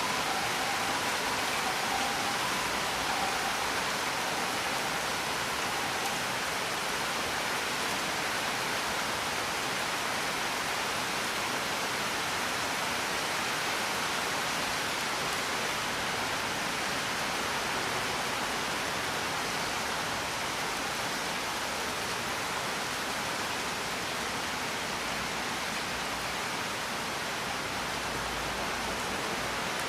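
Steady heavy rain, an even unbroken hiss. Two faint held tones fade away over the first few seconds.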